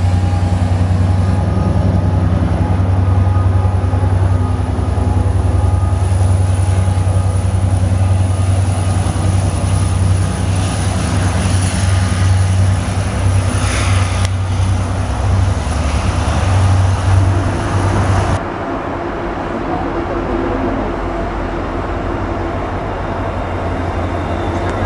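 Israel Railways diesel locomotive-hauled trains moving through a station: a steady deep engine rumble with rail and wheel noise. About two thirds of the way in it gives way abruptly to the lighter rumble of another approaching train.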